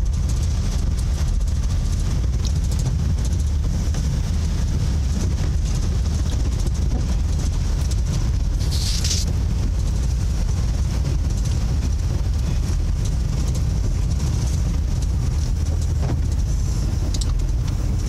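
Steady low rumble of a moving vehicle heard from inside, with a brief hiss about nine seconds in.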